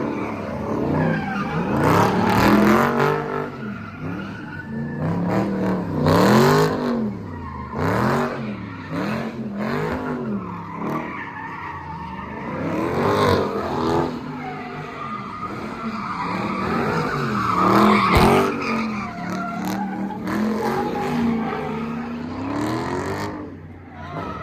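A car engine revving up and down over and over, with tyres squealing and skidding as the car drifts or spins donuts. The tyre noise swells to loud peaks several times.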